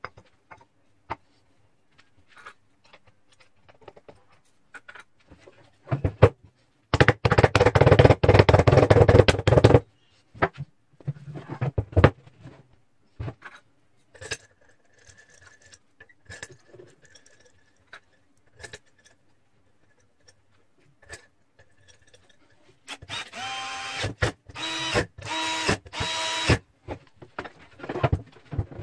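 A power tool runs in two bursts of about three seconds each, one about a quarter of the way in and one near the end; the later burst is started and stopped several times. Scattered clicks and knocks of tools and parts being handled fall between the bursts.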